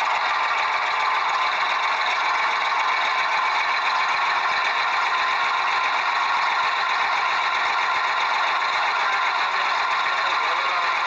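Small electric motor of a toy mini tractor running steadily, with a continuous high-pitched whirr and rattle from its gears.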